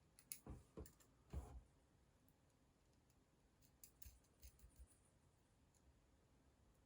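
Faint, scattered clicks of small metal construction-set parts knocking together as nuts and bolts are fitted finger tight, in two short clusters with near silence between.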